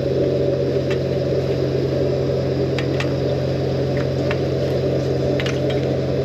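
Drain-jetting unit's engine and high-pressure pump running steadily, with a few scattered light clicks over it.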